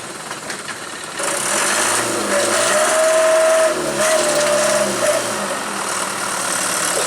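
A motor vehicle engine running, getting louder about a second in, its pitch rising and then falling back over a few seconds.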